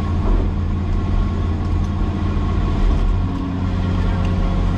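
Cat 336E excavator's diesel engine running steadily at an even speed. A faint steady higher tone joins about three seconds in.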